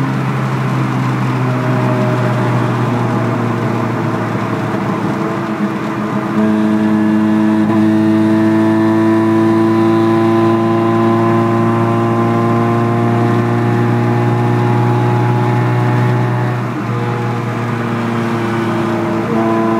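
Ford Fiesta Mk2 XR2's 1.6 CVH four-cylinder engine with a custom Ashley 4-2-1 exhaust, heard from inside the cabin while driving at road speed. It runs steadily, with a short dip about six seconds in, after which it pulls louder. It eases off slightly near sixteen seconds in.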